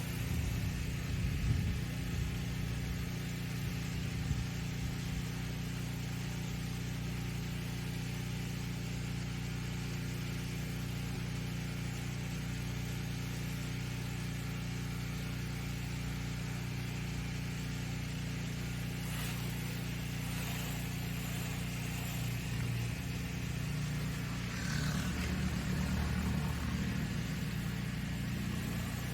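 Gas-engine pressure washer running steadily at a constant drone while its wand sprays a rinse.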